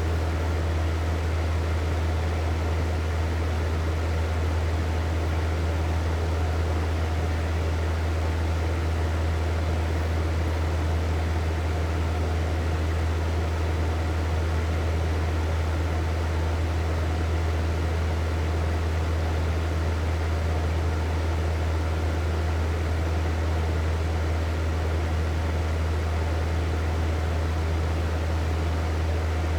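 Hair dryer running steadily: a constant whoosh of blown air over a low motor hum, with no change in speed.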